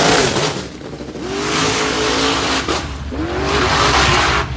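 Drag-racing trucks at the strip: two loud bursts of tire squeal with engines revving, the second ending abruptly.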